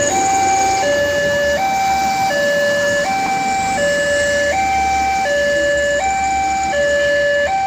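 Railway level crossing's electronic warning alarm sounding, alternating steadily between a higher and a lower tone, each held about three-quarters of a second.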